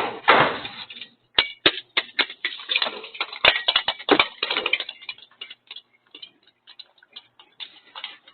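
A short rush of noise, then a rapid run of sharp clicks and knocks that thins out to scattered faint clicks after about five seconds.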